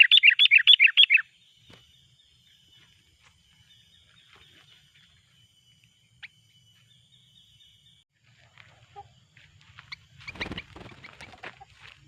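Sooty-headed bulbul giving a loud, rapid chattering call of about six notes a second that stops a little over a second in. A faint steady high hum follows, and near the end there are rustling and clicking handling noises.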